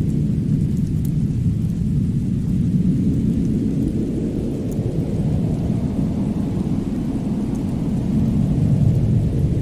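Fireplace ambience: a steady low rumble with a few faint crackles, swelling slightly near the end.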